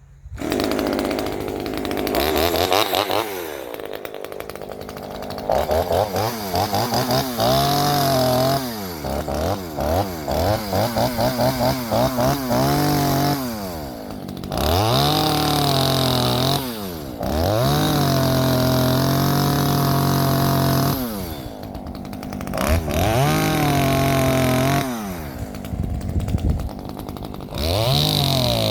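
Ozito 25.4cc two-stroke top-handle chainsaw running under throttle while cutting wood. The engine speed flutters up and down quickly for several seconds, then holds high in long stretches with short drops back. The cutting is a bit doughy, which the owner puts down to a carburettor diaphragm that is going.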